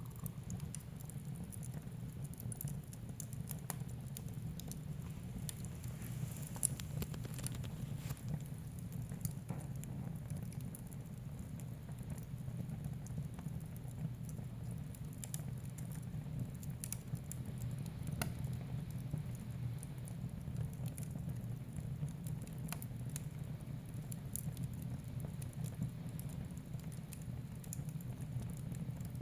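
Wood fire burning in a fireplace: scattered small crackles and pops over a steady low rumble.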